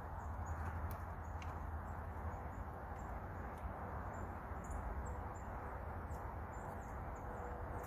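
Faint, short, high chirps of small birds scattered over a steady low background rumble.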